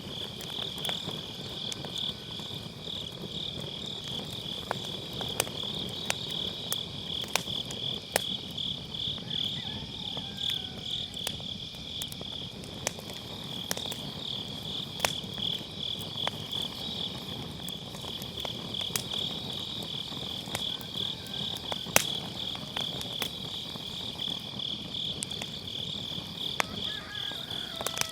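Wood fire crackling with scattered sharp pops, the loudest about three-quarters of the way through, over a steady, pulsing chorus of crickets.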